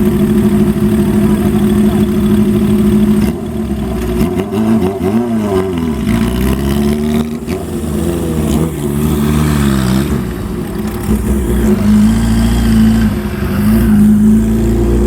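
Motorcycle engines idling and revving as bikes ride in. The engine note rises and falls several times from about four to ten seconds in, then settles back to a steady idle.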